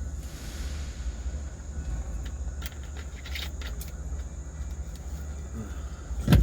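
Low, steady rumble of an idling semi truck, with a few light clicks and one heavy thump near the end.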